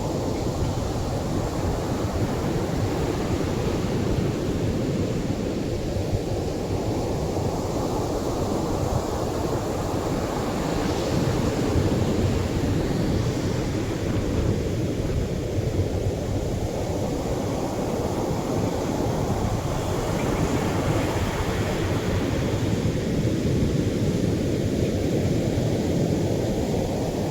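Atlantic ocean waves breaking on a beach: a steady rush of surf that swells louder and brighter as waves break, about ten seconds in and again about twenty seconds in.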